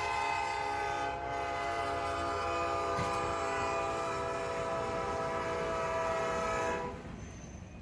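Train horn sounding one long chord of several notes, held steady and cutting off near the end, over the low rumble of the train.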